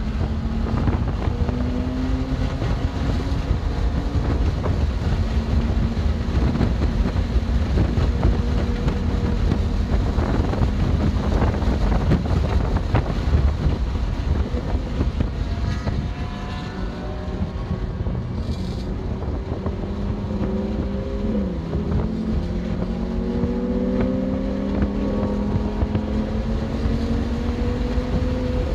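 BMW M2 Competition's twin-turbo inline-six under hard driving on a race track, its note climbing with revs, dipping sharply about three-quarters of the way in, then climbing again. Heavy wind and road rumble run underneath.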